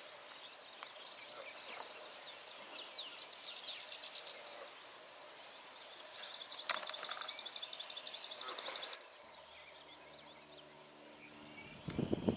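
Several small songbirds calling and singing in a marsh, with one dense, fast, high trill running for about three seconds past the middle.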